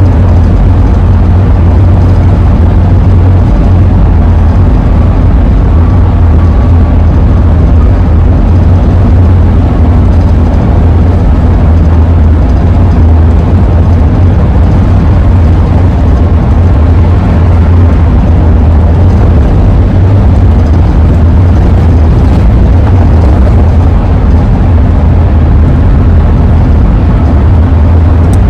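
Steady road and wind noise of a 2001 Ford E-350 camper van driving, a constant low rumble with no breaks.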